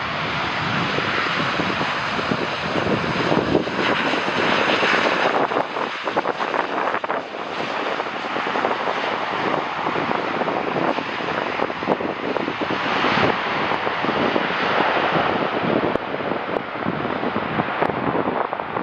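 Jet airliner on landing approach, its engines making a loud, steady rushing noise, with wind buffeting the microphone throughout.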